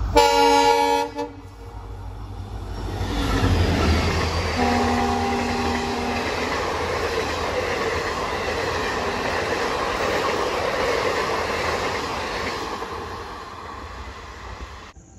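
A passing train's horn sounds a short blast, then a second longer one a few seconds later, as the train rushes past at speed with a loud, steady roar of wheels and carriages that fades away near the end.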